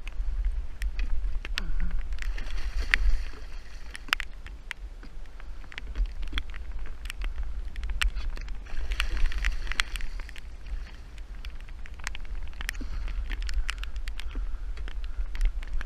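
Low, steady wind noise on the microphone aboard a fishing boat, with many scattered sharp taps and ticks throughout.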